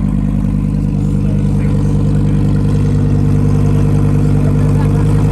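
Car engine idling steadily close by.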